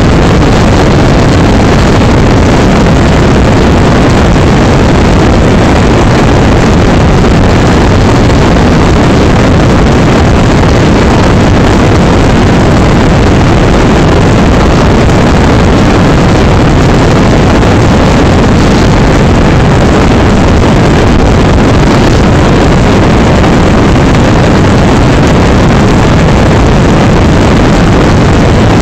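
Torrential rain heard from inside a moving vehicle on a highway: a loud, unbroken wash of rain on the vehicle, tyre spray and engine noise, with no breaks or single events standing out.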